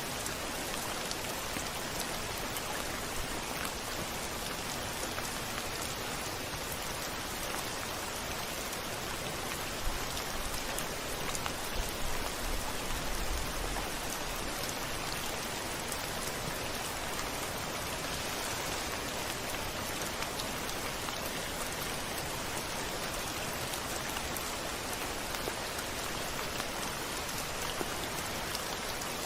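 Steady heavy rain falling against a window, with a brief low rumble of thunder about a third of the way through.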